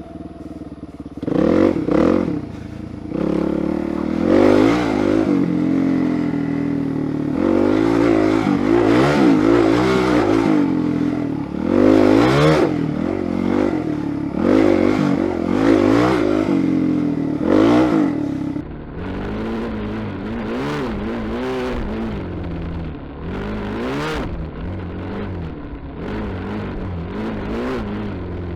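Single-cylinder four-stroke engine of a Suzuki DR-Z400SM supermoto, ridden off-road, revving up and falling back again and again as the throttle is worked. About two-thirds of the way through it drops to a quieter, lower run.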